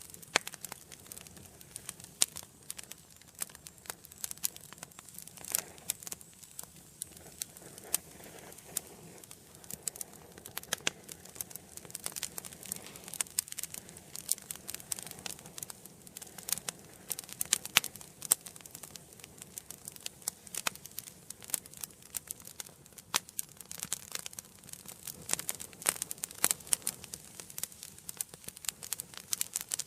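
Wood fire burning in a fireplace: dense, irregular crackling and popping of the burning logs over a soft hiss of the flames.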